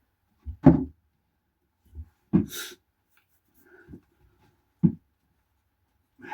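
A few separate knocks and clunks of things being handled and set down, the loudest a little under a second in, with a brief scrape about two and a half seconds in.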